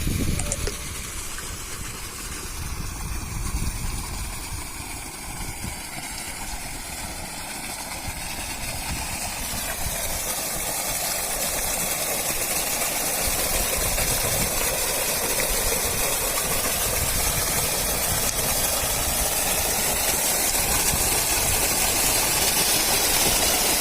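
Motor pump drawing water from a well: the motor running with the rush of pumped water, a steady hiss over a low rumble that grows louder over the first half and then holds steady.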